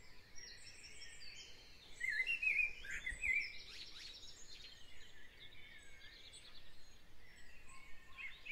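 Faint birds chirping in the background, a few short twittering calls.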